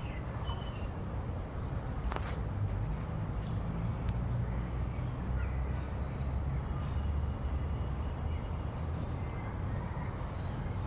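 Steady, high-pitched insect chorus, with a few faint, scattered bird chirps and a low rumble underneath.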